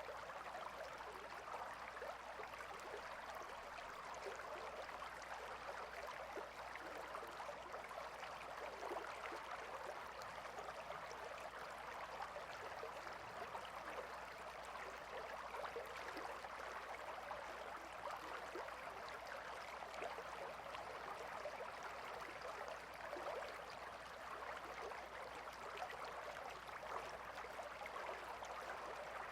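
Gentle river flowing, a steady soft rush of moving water with fine babbling texture.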